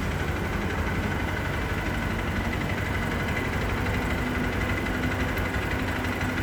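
A steady engine idling hum, low and even, with a faint high whine over it.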